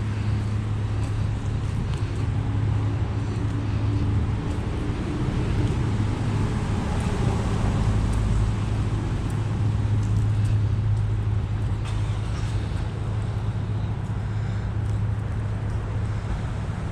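A vehicle engine running with a steady low hum over a haze of road or rain noise, a little louder around the middle.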